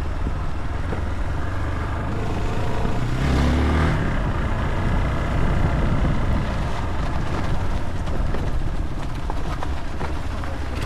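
Motorcycle engine running on the move, with a steady rush of wind and road noise; the engine pitch rises briefly about three seconds in.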